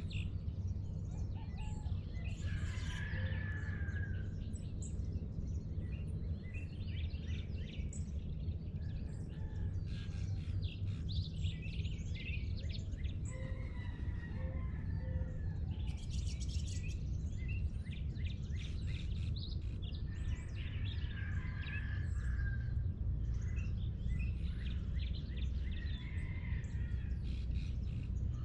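Many birds calling and chirping at sunrise, over a steady low rumble.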